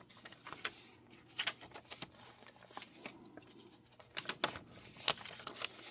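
Paper and card pages of a handmade junk journal being handled and turned: soft rustling with scattered light taps and clicks.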